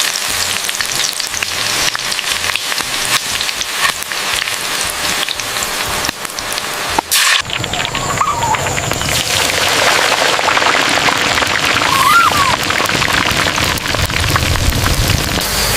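Steady crackling, hissing sizzle of cooking, with a short break about seven seconds in and two brief high squeaks later on.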